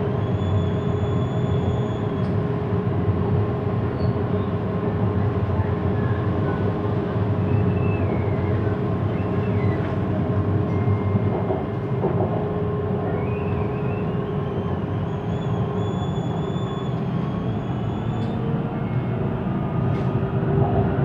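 Siemens Inspiro electric MRT train running on the elevated line, heard from inside the car: a steady rumble and hum of the wheels and running gear, with high whining tones that glide up and then down twice.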